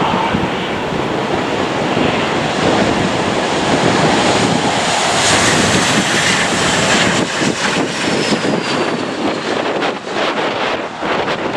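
Jet airliner engines running as the plane passes, a steady rush that swells to its loudest about five seconds in, with a faint falling whine soon after. Wind buffets the microphone in the second half.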